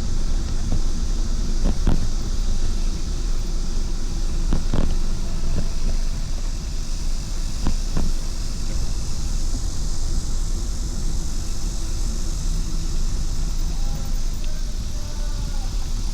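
Steady wind rush on the microphone of a camera on a moving bicycle, with a few sharp knocks about three seconds apart.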